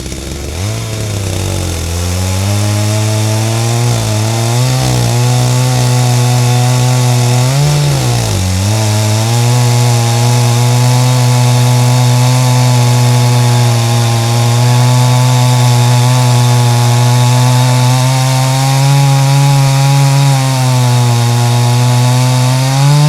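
Stihl MS 250 two-stroke chainsaw at high revs cutting through wood. It revs up about a second in, sags briefly twice in the first eight seconds, then holds a steady pitch under load before cutting off at the end.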